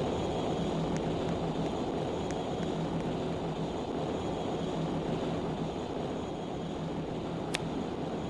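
A ship's engine running with a steady low drone and a constant hum. A single sharp click comes near the end.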